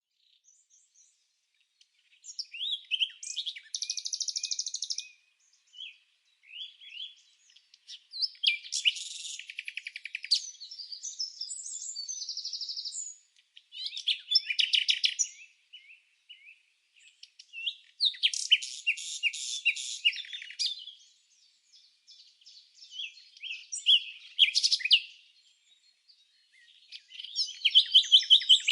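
A songbird singing: high-pitched phrases of rapid trills and chirps, each two to three seconds long, repeated about every four to five seconds with short pauses between.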